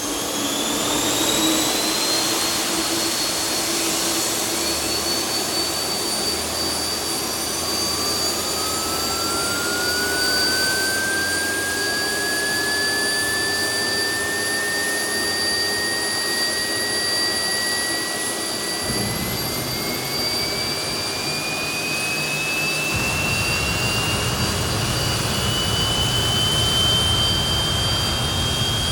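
Rolls-Royce Spey 205 turbofan being started with a Palouste gas-turbine air starter: high turbine whines climbing in pitch as they spool up. A deeper rumble comes in about two-thirds of the way through and grows stronger a few seconds later as the engine picks up.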